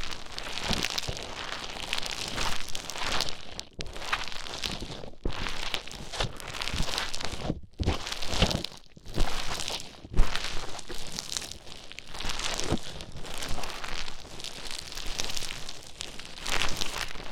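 Play Foam beads squished, stirred and crackled with an ear pick right at the microphone, a continuous crinkly crunching with a few brief pauses.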